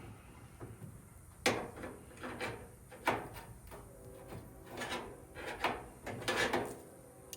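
Metal appliance parts being pried and handled while a washer or dryer is stripped for scrap: a series of irregular clanks and scrapes, the loudest about a second and a half, three, five and six and a half seconds in.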